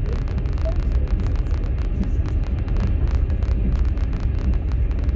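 Moving passenger train heard from inside a platskart sleeper carriage: a steady low rumble of the wheels on the rails, with many light rattling clicks over it.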